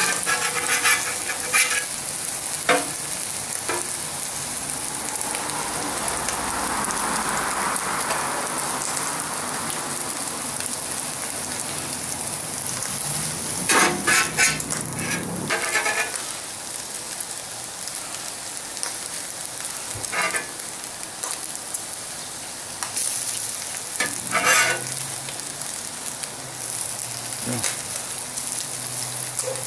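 Bacon and sliced vegetables sizzling on the steel cooktop of a Blackstone 17-inch propane griddle, a steady hiss, with a metal spatula scraping and clacking against the griddle now and then, most in a cluster about halfway through and again near three quarters.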